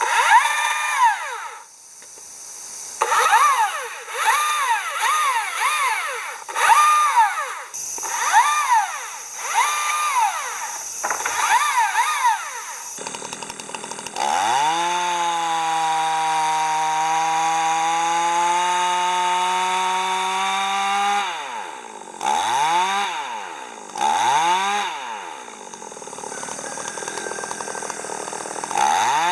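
Chainsaw engine revved in a string of quick bursts, then held in one long cut of about seven seconds with its pitch pulled down under load, then blipped a few more times.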